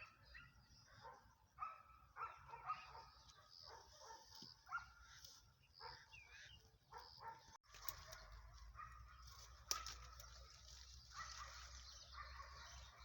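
Faint domestic animal calls, short and repeated, over a low steady hum.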